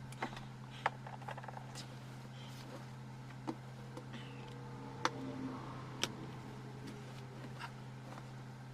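Scattered light clicks and taps at irregular times over a steady low electrical hum.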